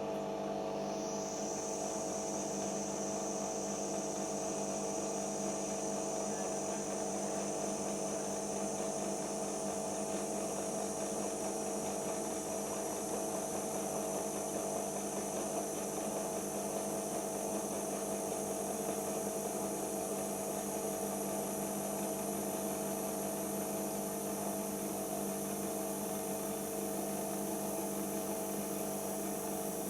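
Siemens iQ washing machine's motor turning the drum during the final spin stage: a steady hum with a high whine that rises about a second in and then keeps climbing slowly.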